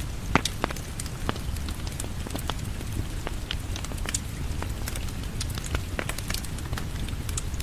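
Crackling wood fire with frequent sharp pops over a steady patter of rain on a porch.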